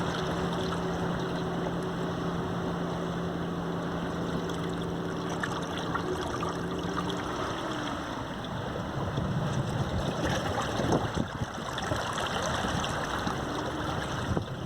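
Sea waves washing onto a beach, a steady rushing wash that swells a little louder partway through. A steady motor hum sits under the surf for the first half, dipping in pitch and fading out about halfway in.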